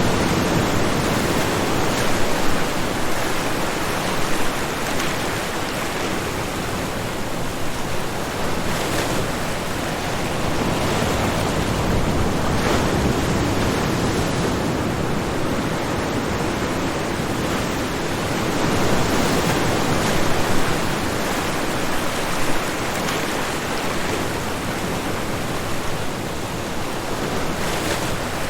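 Ocean waves breaking on a shoreline: a continuous wash of surf that swells and eases a little in loudness.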